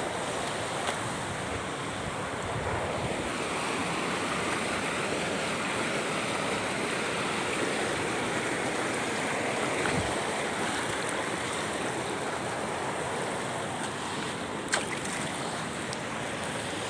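Steady rushing of water, with wind noise on the microphone. A single sharp click near the end.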